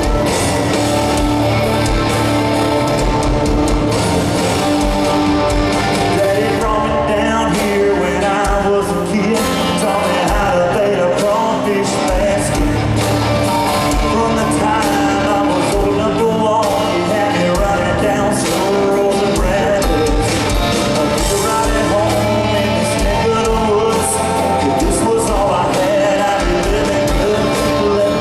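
Live country-rock band playing through a concert PA, with a male lead vocal singing over guitars and a steady kick drum.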